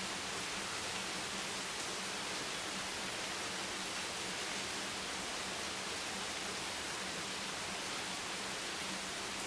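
Steady rain: an even, unbroken hiss with no single drops standing out, over a faint low hum.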